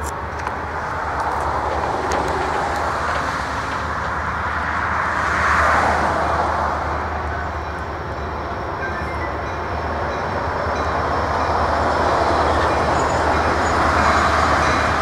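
Approaching Norfolk Southern freight train: the diesel locomotives' steady rumble and the train's running noise, growing gradually louder as it draws nearer.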